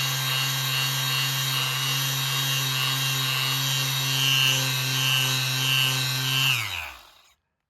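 Bosch GSS 23 AE orbital finishing sander running at a steady speed with a sanding hiss. About six and a half seconds in it is switched off, and the motor winds down with falling pitch to a stop.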